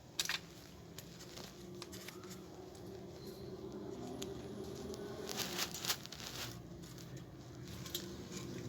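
Handling noises of small plastic parts as a fan blade is pushed onto a hair dryer's small DC motor: light clicks and rustling, with a sharper cluster of clicks about five and a half seconds in.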